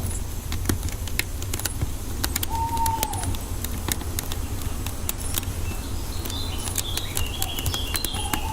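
Wood fire crackling, with irregular sharp pops over a low steady rumble. A bird gives a single short whistled note, rising then falling, about two and a half seconds in and again at the end, and higher chirps twitter in the last two seconds.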